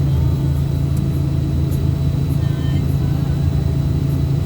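Steady low engine hum and road rumble of a moving motor vehicle, heard from on board during a drive.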